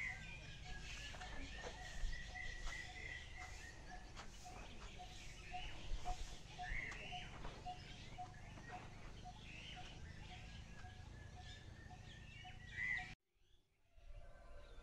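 Outdoor bird calls: a low note repeated about twice a second, a thin steady high tone underneath, and scattered short chirps, all cutting off suddenly near the end.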